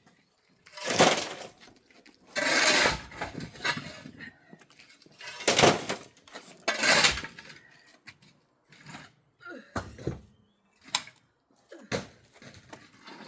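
Screws being driven into a uPVC windowsill to hold it to the window frame: four grinding bursts of about a second each, then several short clicks and knocks.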